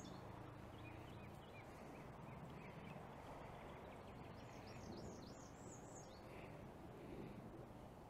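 Faint bird song over quiet outdoor background: scattered soft chirps, then a quick run of about ten high, falling chirps in the middle.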